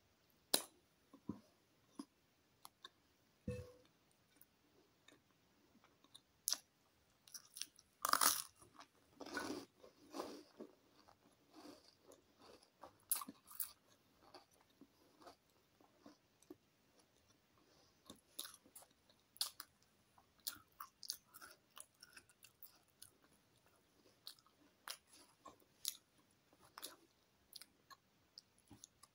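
Biting and chewing a crusty chicken and lettuce baguette: irregular crunches of the bread crust and lettuce, with the loudest run of crunching about eight seconds in.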